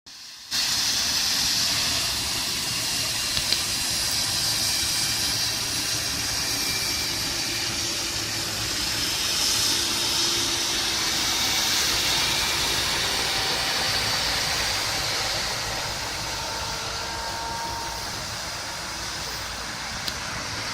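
Claas Lexion 540 combine harvester running while harvesting wheat: a steady low engine hum under a loud hiss, cutting in suddenly about half a second in.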